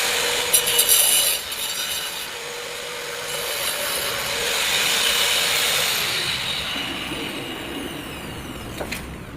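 Electric power tool running against hard material: rough grinding and scraping noise over a steady motor whine, gradually fading toward the end.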